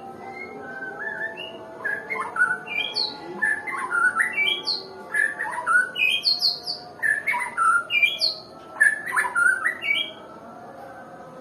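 White-rumped shama (murai batu, Nias type) singing a long phrase of quick, varied whistled notes, many sliding up or down in pitch. The song starts about half a second in and stops about a second before the end.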